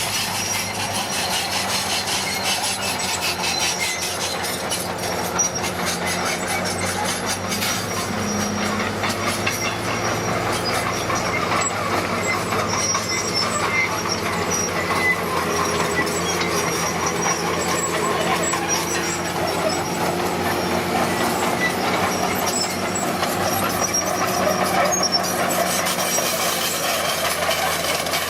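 Komatsu D41P crawler bulldozer at work: its diesel engine running steadily under load while the steel tracks clank and squeal.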